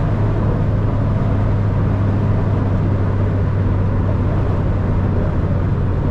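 Lexus IS300's naturally aspirated 2JZ-GE inline-six, with an HKS Carbon Ti exhaust and resonator delete, heard from inside the cabin. It drones at a steady engine speed while the car cruises on the freeway, with no rise in pitch.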